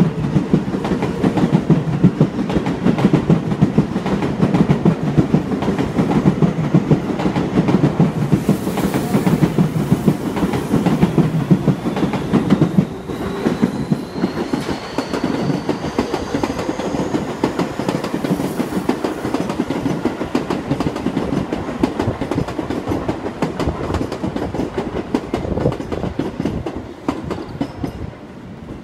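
Seibu Railway electric trains running over the tracks and points below, wheels clattering continuously over rail joints. About halfway through, a faint rising whine joins in and the clatter eases a little. It fades near the end.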